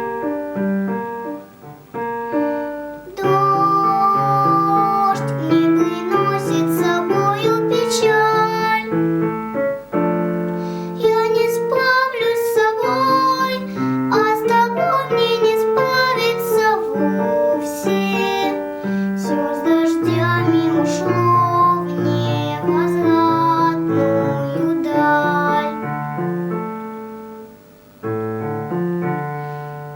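A young girl singing a Russian song to keyboard accompaniment.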